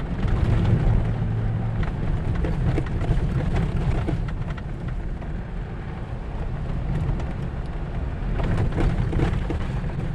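A vehicle driving slowly on an unpaved forest road, heard from inside: a steady low engine and road rumble under the crunch of tyres over the surface, with scattered clicks and rattles.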